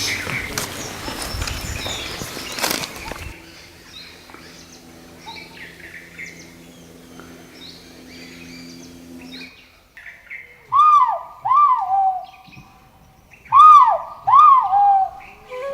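Birds calling: many small, high chirps, then four loud calls in two pairs near the end, each rising briefly and then falling in pitch. A noisy rush fills the first three seconds.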